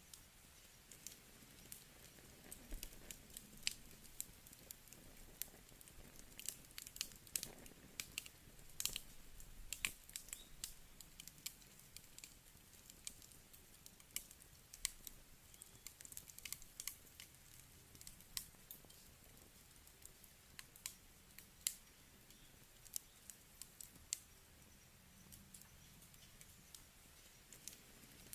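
Wood burning in a campfire, crackling quietly with irregular sharp snaps and pops, some coming in quick clusters, over a faint hiss.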